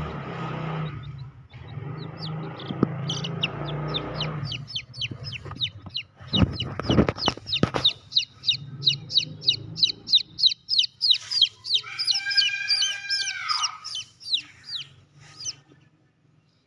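Birds calling: a fast run of short, high, downward-slurred calls, two or three a second, and about twelve seconds in a longer, lower drawn-out call that falls at its end. A low hum in the first few seconds, and a brief clatter about seven seconds in.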